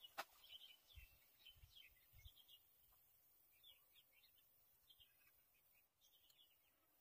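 Faint chirping of small birds, short calls repeated every fraction of a second. Two sharp clicks right at the start and a few soft low thumps in the first couple of seconds.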